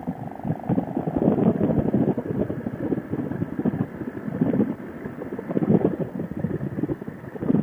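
Wind buffeting a helmet-mounted microphone on a motorcycle at road speed, in irregular gusts, with the motorcycle's running noise underneath.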